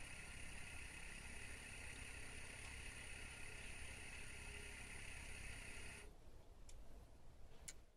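Elevator motor running steadily with a constant high whine and hum, cutting off abruptly about six seconds in, followed by a couple of faint clicks.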